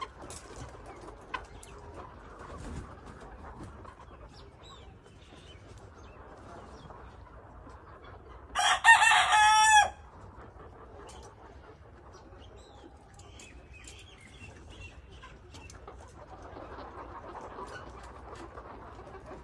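A rooster crows once, loud and about a second long, a little before the middle. Faint chirping and clucking sound around it.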